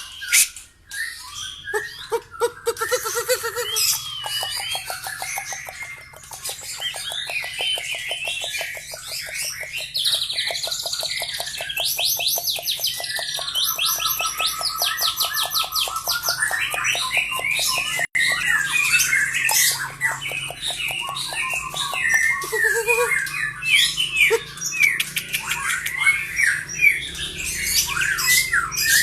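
White-rumped shama (murai batu) singing a long, varied song full of mimicked phrases of other birds: quick chirps and harsh notes over a long, fast rattling trill.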